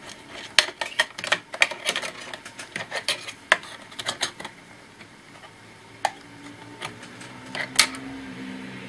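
Rapid small clicks and taps of a laptop's plastic and metal internal parts being handled and worked loose, dense for the first few seconds and then only a few isolated clicks.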